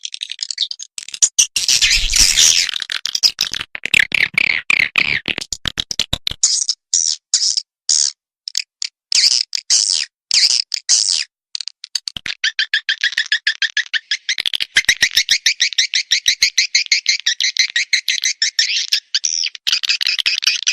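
Recorded swiftlet calls from a swiftlet-farming lure track: dense chirping and twittering at first, then separate short chirps with gaps. From a little past halfway it turns into a fast, even run of chirps.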